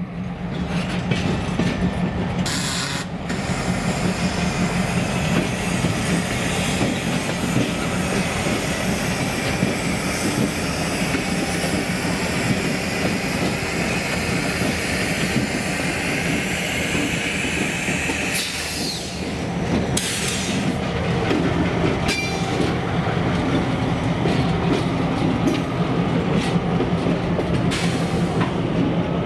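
Diesel freight locomotives passing close by, engines running steadily, with wheels clacking over the rail joints. A high wheel squeal runs through the middle of the passage.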